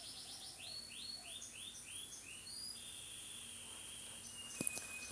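Pet talking bird calling: a run of about five short falling chirps, then a longer held whistle, with a single sharp click near the end.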